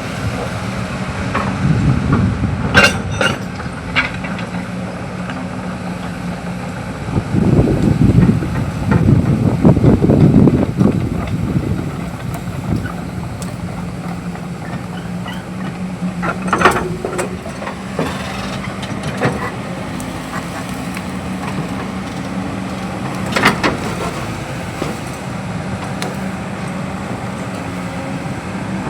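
Hydraulic excavator's diesel engine running steadily, rising into a louder, rougher surge for a few seconds in the middle as it works, with a few sharp knocks scattered through.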